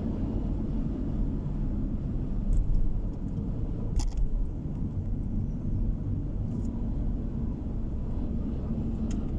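Steady low rumble of a car driving on the road, heard from inside the cabin, with about four short, sharp clicks scattered through it.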